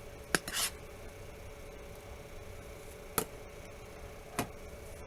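A few small sharp clicks and taps, with one brief scrape near the start, from the small parts of an LG K373 phone being handled and pressed into place during reassembly.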